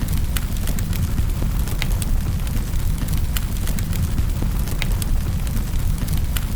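Wood fire burning in a fireplace: a steady low rumble with frequent sharp, irregular crackles and pops from the burning wood.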